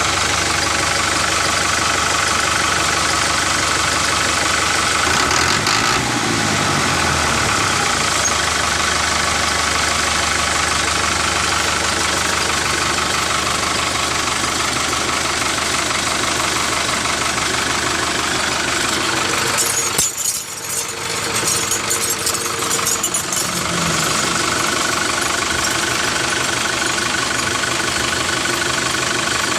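A small engine running steadily. Its pitch dips about six seconds in, and there is a stretch of clatter and clicks about two-thirds of the way through.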